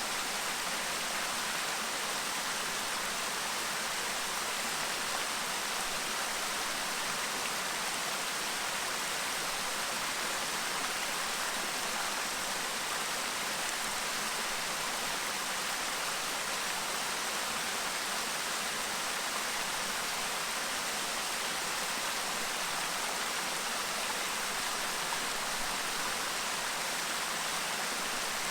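Clear river babbling: steady, even rushing of flowing water with no breaks.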